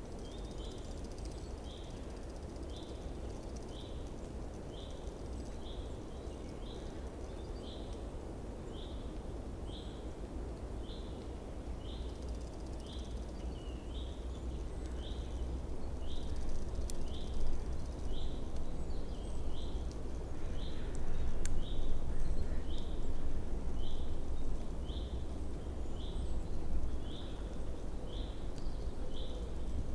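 A small bird repeating one short, high call note a little more than once a second, very evenly, over a steady low background rumble that grows louder about halfway through.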